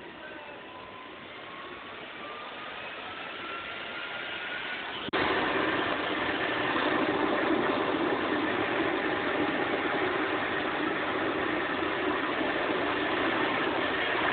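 Model jet turbine engine on a radio-controlled truck: a whine rising in pitch as it spools up, then abruptly much louder about five seconds in, running loud and steady.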